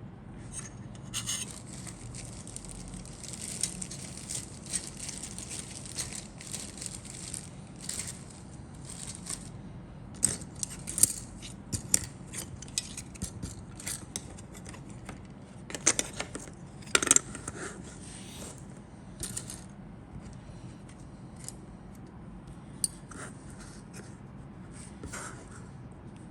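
Parts and packaging of a plastic model aircraft kit being handled: rustling, scraping and light clicking, with a few sharper clacks about two thirds of the way through, over a steady low hum.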